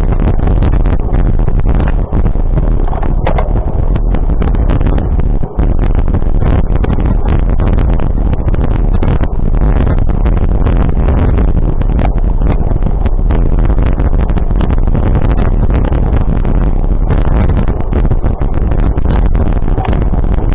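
Steady loud rumble of a moving vehicle, with wind buffeting the microphone.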